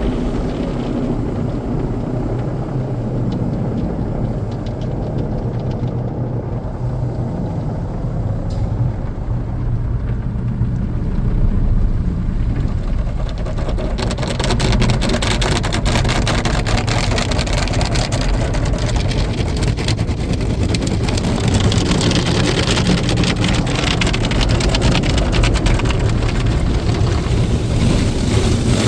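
Automatic car wash running: a steady low machine hum, joined about 14 seconds in by a louder hiss with a dense patter of water and washing gear on the car body.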